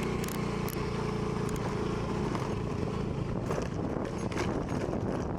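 Motor scooter engine running steadily; its hum fades after about two seconds into a rushing noise like wind on the microphone.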